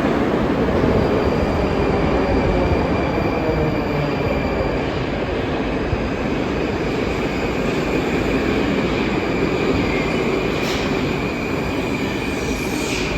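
Moscow Metro train running between stations, heard inside the car: a steady rumble of wheels and running gear. From about two seconds in, a thin high wheel squeal rides over it.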